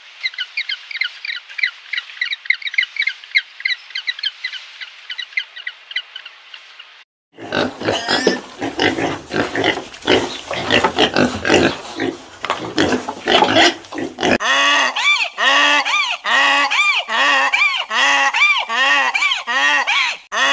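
Adélie penguins calling in quick repeated notes, then a litter of piglets squealing and grunting, then donkeys braying in a steady run of rising-and-falling calls about two a second.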